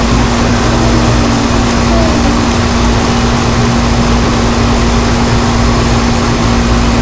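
Strong wind blowing, a loud, steady, even rushing, with a steady low hum under it.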